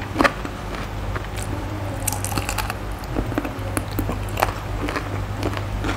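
Close-miked biting and chewing of boiled chicken feet in a spicy cucumber salad, with irregular sharp clicks and crunches.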